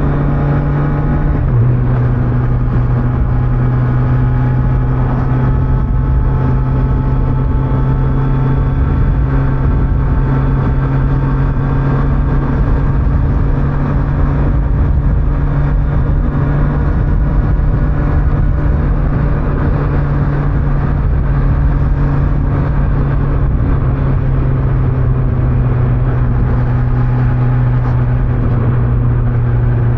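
Kawasaki Z900's inline-four engine running at a steady cruise through its stock exhaust, with road and wind noise underneath. The engine note drops a little about a second and a half in, then holds steady.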